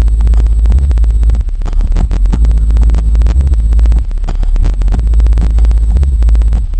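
Audiobahn 12-inch DUB1200 subwoofer in a ported box playing a bass track at high volume: deep bass notes that shift every second or so, with crackling distortion on top.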